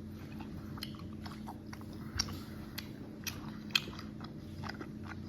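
Close-up chewing of gummy candy: soft, irregular wet mouth clicks and smacks, a few sharper ones, over a low steady hum.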